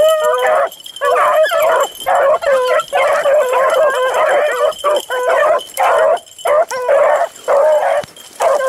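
A pack of beagles baying while running a rabbit. Several dogs call over one another in overlapping bawls and yips, with short breaks about every second.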